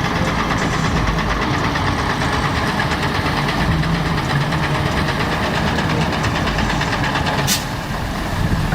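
A Kamaz heavy truck's diesel engine running hard under load, a dense, steady mechanical din. There is one sharp crack about seven and a half seconds in.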